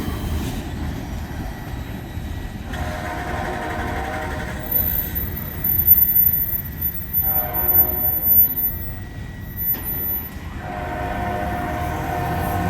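Canadian National freight locomotive's air horn sounding three blasts over the low rumble of the moving train: one of about two seconds roughly three seconds in, a shorter one around seven seconds, and a third starting near the end that holds on.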